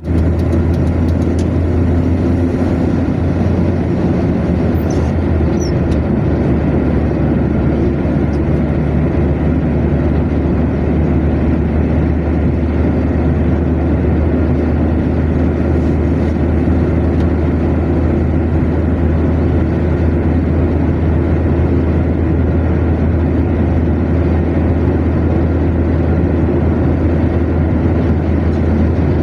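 Car cruising at steady motorway speed: a continuous low drone of engine and tyre-on-road noise that stays level throughout.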